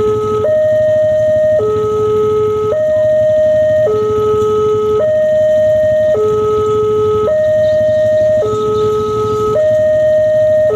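Two-tone siren alternating steadily between a higher and a lower note, each held about a second.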